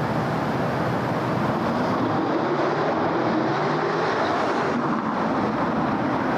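Steady hum of city road traffic, a continuous wash of tyre and engine noise. Around the middle, one vehicle's engine note swells and fades.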